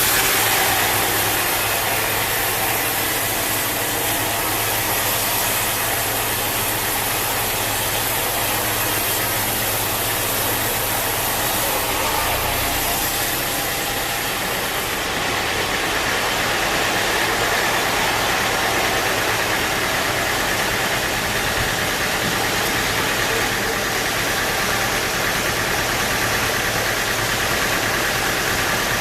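Sawmill machinery running steadily, a continuous loud mechanical noise with a hiss that shifts slightly about halfway through.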